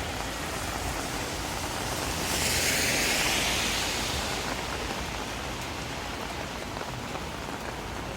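Steady rain falling on the street, with a louder hiss that swells and fades again about two to four seconds in.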